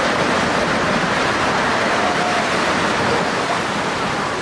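Floodwater rushing past in a steady, loud, unbroken rush.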